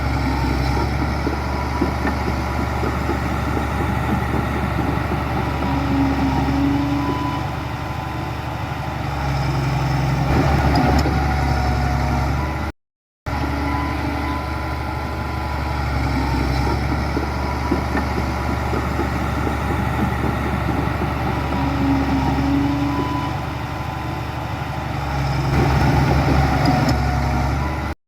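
Heavy diesel engine of earthmoving machinery running steadily, swelling louder for a couple of seconds twice. The sound cuts out completely for a moment about 13 seconds in, and the same stretch of engine sound then repeats.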